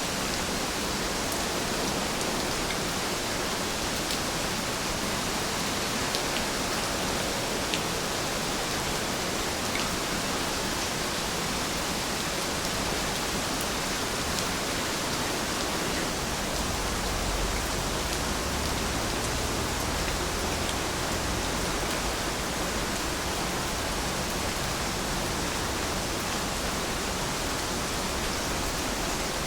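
Steady rainfall, an even hiss with faint scattered drop ticks, and a soft low rumble swelling briefly about two-thirds of the way through.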